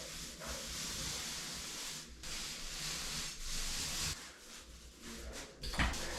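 Paint roller being rolled over a wall: a rustling hiss in repeated strokes with short pauses between them, and a brief knock near the end.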